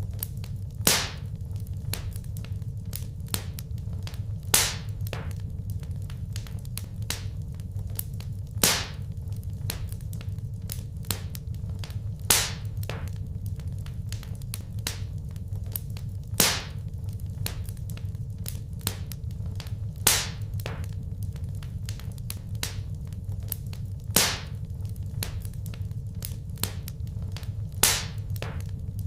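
Wood fire crackling in a fireplace: small snaps throughout over a low steady rumble, with a sharper, louder pop about every four seconds.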